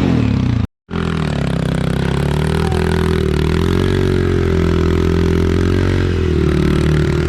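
Dirt bike engine running under way, its pitch rising and falling gently with the throttle. The sound drops out completely for a moment under a second in.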